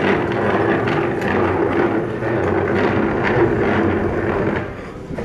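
A machine running steadily, with a constant hum under a rushing noise.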